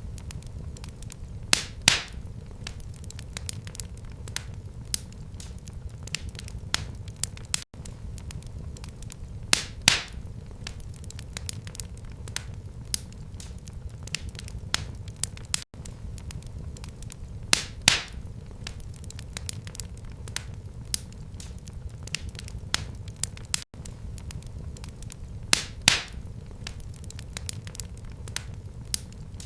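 Wood fire crackling in a fireplace: a steady low rumble under many small snaps and several sharp louder pops. The same eight-second stretch repeats, with a brief gap at each seam.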